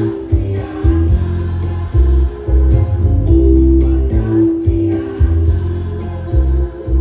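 Choir of elderly singers singing over musical accompaniment with a strong, regularly pulsing bass.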